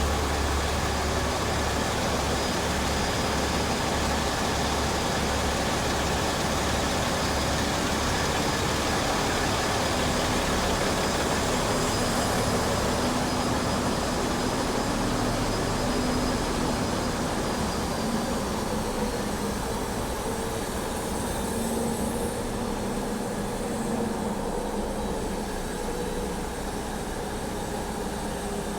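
Tugboat's diesel engines running steadily, heard aboard as a continuous low mechanical drone with a hiss of machinery noise above it. The low hum weakens a little about two-thirds of the way through.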